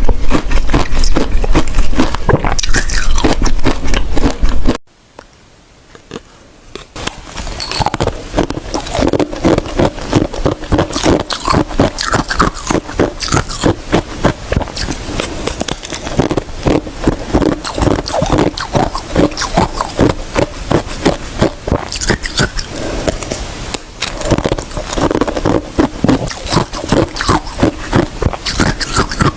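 Close-miked crunching of ice being bitten and chewed. Dense loud crunching breaks off about five seconds in, falls nearly silent for a couple of seconds, then resumes as a fast, steady run of crunching chews.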